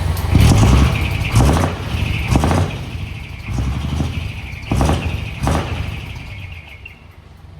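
Isuzu Forward truck's diesel engine with a split exhaust manifold (mani-wari), revved in about six quick throttle blips roughly a second apart, then settling toward idle near the end.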